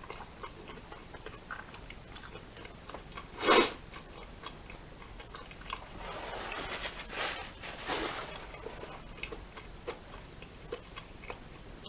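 Close-miked chewing and wet mouth clicks from someone eating a chili cheese corn dog. A single sharp, loud sound comes about three and a half seconds in, and a longer rustling noise runs from about six to eight seconds.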